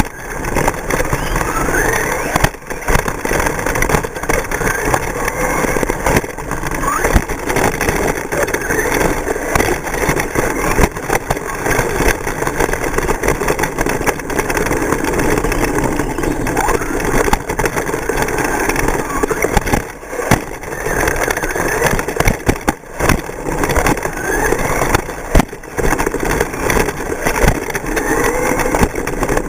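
Radio-controlled short course trucks running laps on a track, several motors whining up in pitch again and again as they accelerate, over a continuous noisy wash.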